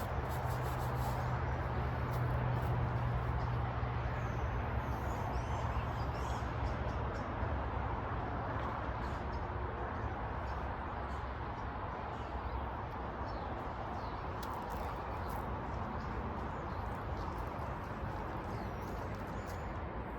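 Outdoor ambience: a steady low rumble, stronger in the first half and easing about halfway through, with faint, scattered high bird chirps.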